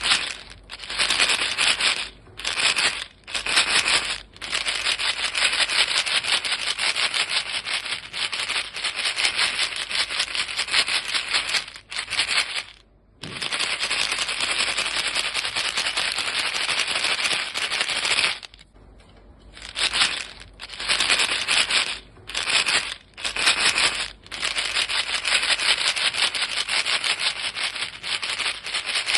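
A box of chewing gum pieces shaken fast, a dense steady rattle of the pieces against the box. It stops briefly several times, the longest break about two thirds of the way in.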